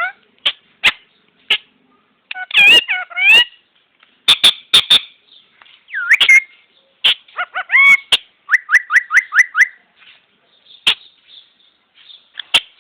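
Parrot whistling and clicking: bending whistled notes, a quick run of about six rising whistles a little past the middle, and sharp clicks in between.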